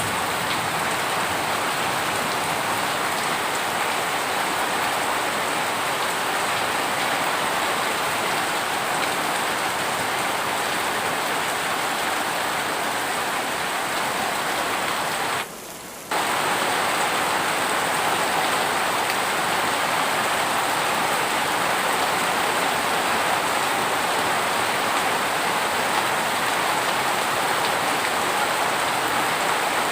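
Heavy rain falling steadily, an even hiss of drops with no thunder, dipping briefly for under a second about halfway through.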